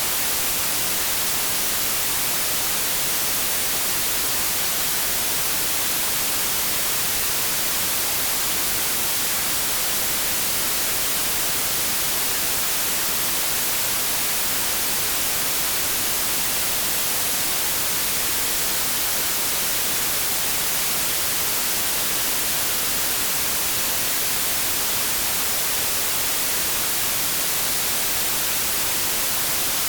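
Continuous synthetic white noise, a steady, even hiss weighted toward the high frequencies, with no change or events.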